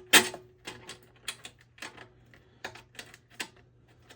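Small sharp metal clicks and taps at an irregular pace, the loudest just after the start, as a nut is worked onto a bolt by hand.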